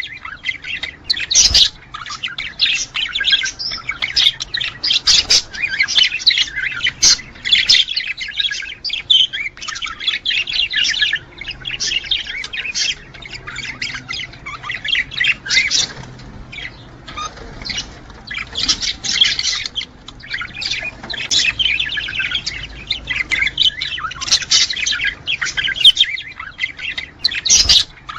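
Budgerigars chattering and warbling without a break: a dense run of rapid squawks, chirps and clicks, the courting warble that male budgies give at mating time.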